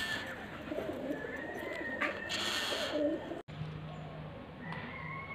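Bird calls in the background, a dove-like coo among them, with a short burst of hiss about two and a half seconds in. The sound drops out for an instant a little past halfway, and a low steady hum follows.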